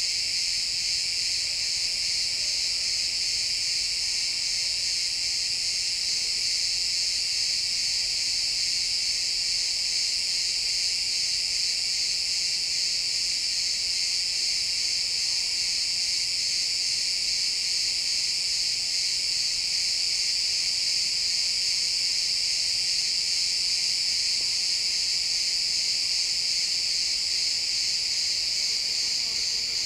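A chorus of crickets chirping continuously, a dense, steady, high-pitched trill with no breaks.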